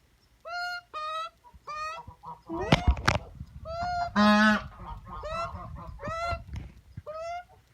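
A magpie giving a string of short, nasal, honking calls, about ten of them, with a louder, harsher call around the middle. A few sharp knocks come just before it.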